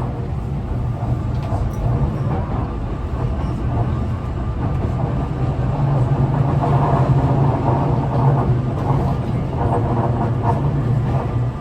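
Tobu 50090-series electric train heard inside a passenger car under way: a steady low traction-motor hum over wheel-and-rail rumble, getting a little louder about halfway through. The motor in this car sounds slightly unusual, which the uploader puts down to it being a different type of motor from the rest of the train.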